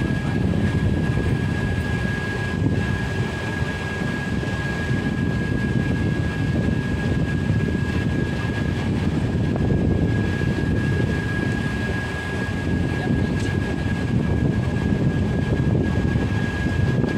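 Steady running noise of a passenger express train at speed, heard from beside the open coach door: a continuous low rumble with a thin, steady high whine.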